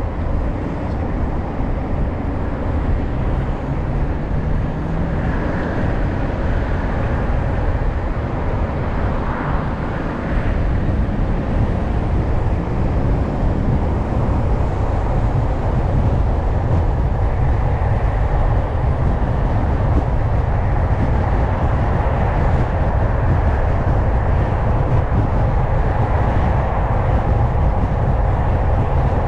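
A car driving along a road: steady tyre and road noise with a low engine rumble, growing a little louder partway through.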